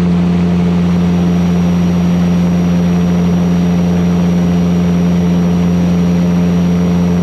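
Van's RV-8 light aircraft's piston engine and propeller droning steadily at full takeoff power during the climb-out, heard from the cockpit.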